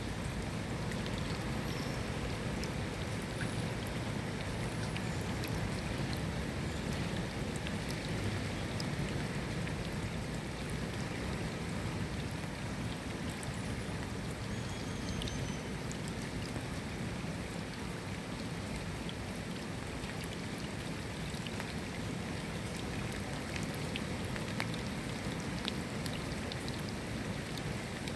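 Steady rain, with many separate drop ticks scattered over an even hiss.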